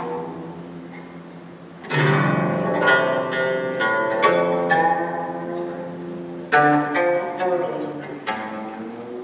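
Live music for guzheng and a low bowed string instrument. A quiet held note gives way, about two seconds in, to a run of plucked guzheng notes over sustained low bowed tones, with a second burst of plucks about six and a half seconds in.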